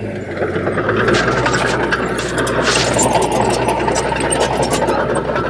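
Heavy diesel earthmoving machine running, its engine getting louder about half a second in and then holding steady, with a dense rattle and many short clicks over the hum.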